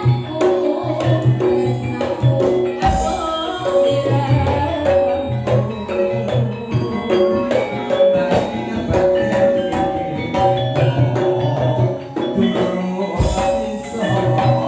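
Campursari music: Javanese ensemble playing with gamelan-style mallet percussion and drums over a steady beat.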